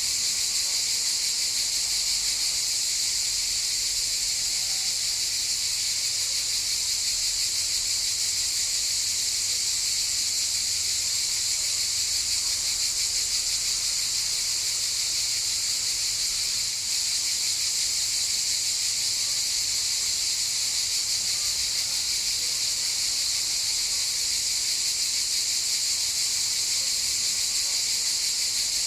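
A chorus of cicadas buzzing steadily in a dense, continuous high-pitched drone.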